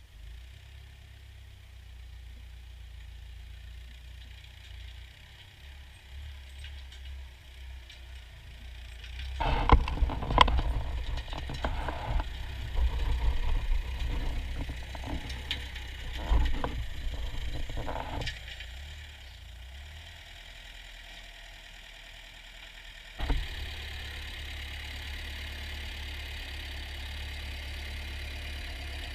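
Ford farm tractor engine running with a steady low hum. About a third of the way in comes a loud, irregular stretch of knocks and clanks lasting several seconds. Near the end there is a sudden thump, and the engine then runs steadily and louder.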